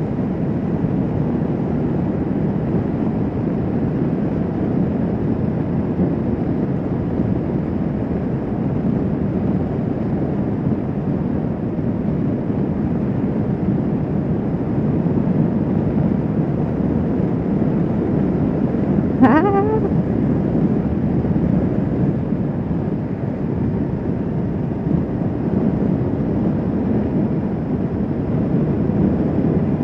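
Kawasaki Vulcan S 650 parallel-twin cruiser motorcycle running at a steady cruising speed, its engine mixed with steady wind and road noise. A brief voice-like sound comes about two-thirds of the way through.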